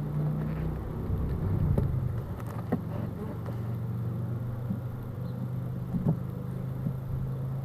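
A steady low hum with a few short, sharp knocks and clicks of wooden hive boxes and frames being handled.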